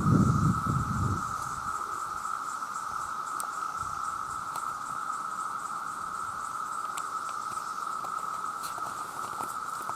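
A dense chorus of cicadas calling together: one steady, unbroken drone. A low rumble runs through the first second.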